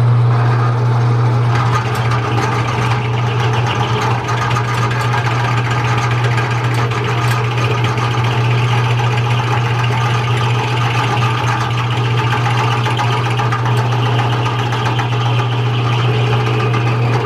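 A machine running steadily with a strong, even low hum.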